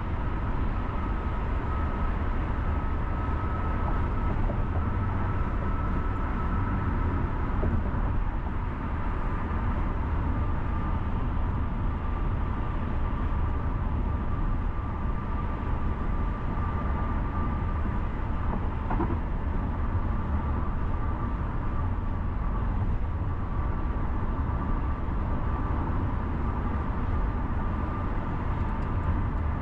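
Car driving on city roads: a steady low rumble of engine and tyres on the road, with two faint steady whining tones above it.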